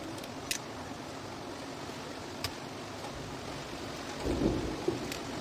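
Steady hiss with a few short sharp clicks and one dull low knock about four and a half seconds in, the loudest moment.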